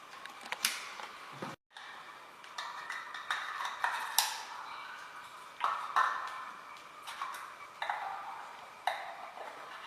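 Irregular sharp clicks and ringing pings, a few each second, with the sound cutting out for a moment about one and a half seconds in.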